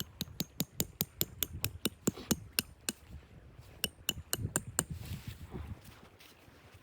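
A run of sharp, evenly spaced knocks, about three a second, like hammer strikes, stopping about three seconds in; a quicker cluster of knocks follows about a second later, then a soft hiss.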